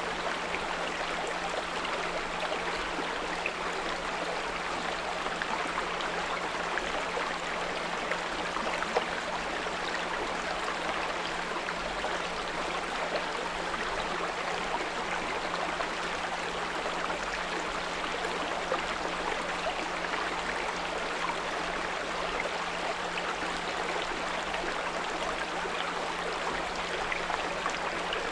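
Small brook running steadily, with a continuous low 174 Hz pure tone held underneath the water.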